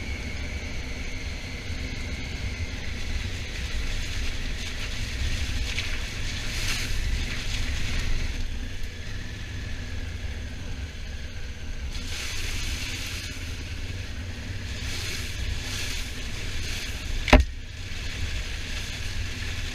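Motorcycle riding noise from a Honda Africa Twin under way: wind buffeting the microphone with a steady rumble, and road and engine hiss that swells and fades. A single sharp knock comes near the end.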